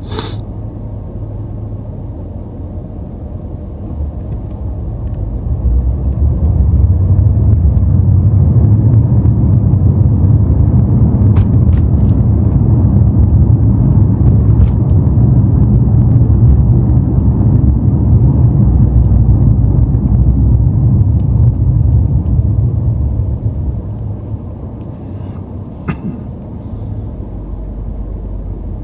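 BMW M5 on the move: a low engine and road rumble that swells over a couple of seconds about five seconds in, holds steady, then drops back a few seconds before the end.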